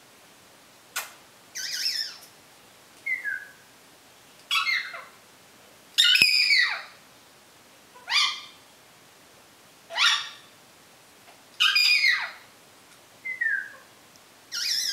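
African grey parrot calling over and over, about ten calls in a row spaced a second or two apart. Most are squawky calls that fall in pitch, mixed with a couple of short whistles; the loudest comes about six seconds in.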